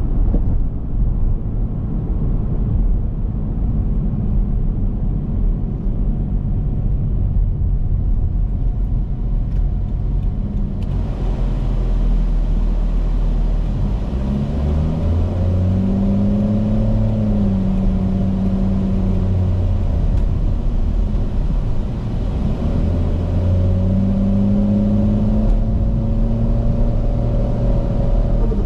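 Turbocharged 1JZ-GTE VVTi inline-six in a Scion FR-S running under way, a steady low drone. Its pitch climbs about halfway through, falls back, and climbs again near the end.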